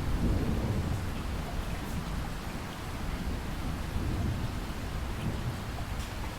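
Steady rain hissing with a low rumble of thunder, strongest in the first second and swelling again about four seconds in.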